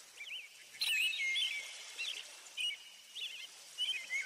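Songbirds chirping: quick rising-and-falling whistled notes and short rapid trills, repeated phrase after phrase. A brief click comes a little under a second in.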